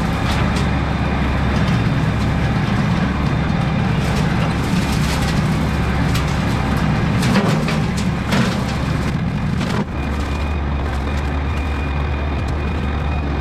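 Massey Ferguson GC1720 compact tractor's diesel engine running under load while a King Kutter 48" rotary brush cutter works, with scattered sharp cracks and knocks from brush being cut. About ten seconds in, the sound settles into a steadier running note with a faint high whine.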